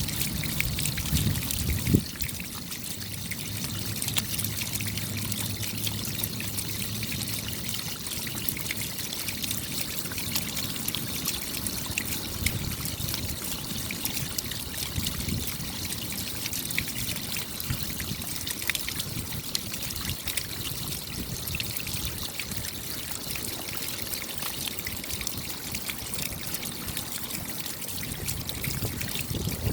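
Steady rain, with many small drops ticking and water trickling. There is low rumbling in the first couple of seconds and a single sharp knock about two seconds in.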